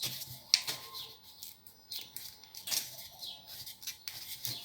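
Irregular sharp plastic clicks and rubbing as the loosened plastic cover of an LED bulb is handled and pulled off its base.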